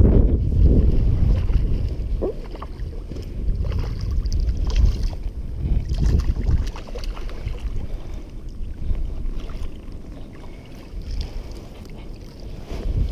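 Strong wind buffeting the microphone in gusts, a deep uneven rumble that is heaviest in the first couple of seconds and then eases, with a few small clicks.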